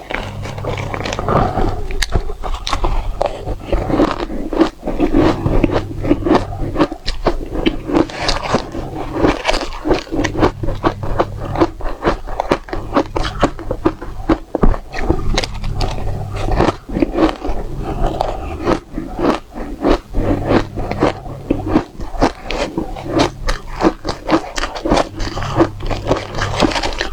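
Close-up biting and crunching of dry, frozen matcha ice, a dense run of crisp crunches one after another, over a steady low hum.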